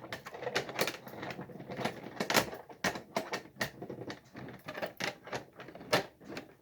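Close, irregular clicking and knocking of small hard plastic and metal objects being handled and set down, several taps a second.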